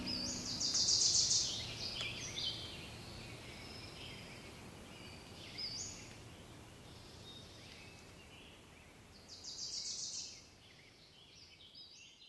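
Songbirds singing, with a rapid run of high notes about a second in and again near ten seconds, over faint outdoor hiss; the sound fades away toward the end.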